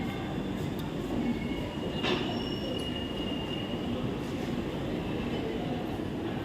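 Train rumbling along the rails, with a sharp click about two seconds in followed by a thin high squeal lasting about a second and a half.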